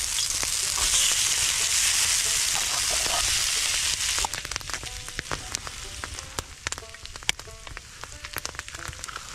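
Frozen corned beef hash frying on a hot skillet: a loud, dense sizzle for about four seconds, then quieter sizzling with many sharp crackles and pops.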